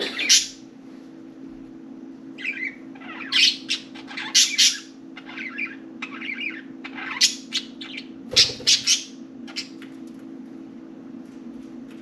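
Budgerigars chirping and chattering in short, high calls that come in clusters throughout, over a steady low hum.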